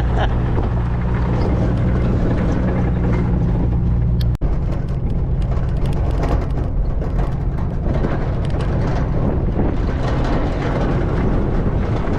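Car running along a rough road: a steady low engine drone with road and tyre noise, broken once by a brief dropout a little over four seconds in.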